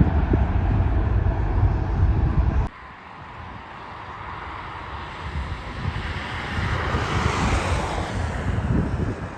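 Jet airliner engines passing: a rushing jet noise swells to a peak and eases off, its pitch sliding down as it goes. Before that, a loud low rumble with wind buffeting the microphone cuts off abruptly near the start.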